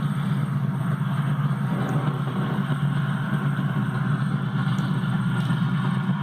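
A motor vehicle engine running steadily at idle with an even low rumble.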